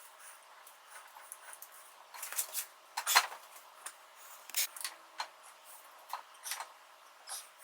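Irregular metallic clinks and clicks of small hand tools and metal parts being handled, with the loudest cluster about three seconds in.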